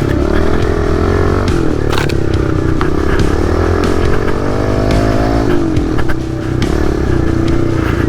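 Kawasaki KLX110R's small four-stroke single-cylinder engine being ridden hard, with the revs rising and falling on the throttle. The revs climb from about three seconds in and drop away sharply about two and a half seconds later. A few sharp knocks sound over the engine.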